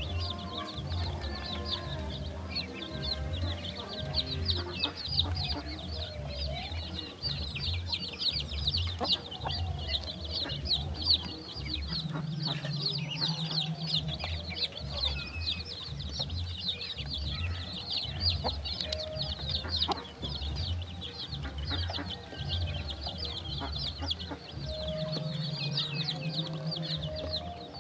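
Many chicks and ducklings peeping rapidly and continuously in a high chorus, with occasional lower clucking calls that fall in pitch. A steady low musical beat runs underneath.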